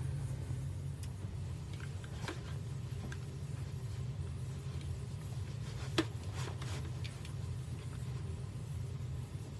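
Steady low hum with a few light clicks and knocks, the sharpest about six seconds in, from washing machine parts being handled and fitted.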